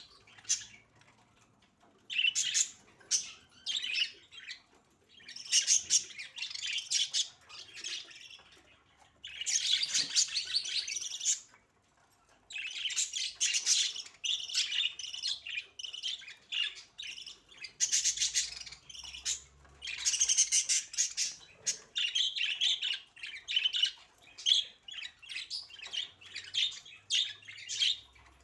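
Budgerigars chirping and chattering in spells of rapid high calls, each a few seconds long with short pauses between, turning into a long unbroken stretch of chatter about halfway through.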